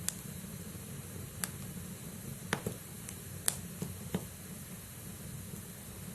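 Wood logs burning in a fireplace: a steady low rush of flame with a handful of sharp crackles and pops from the firewood, most of them in the middle, then only the steady burning.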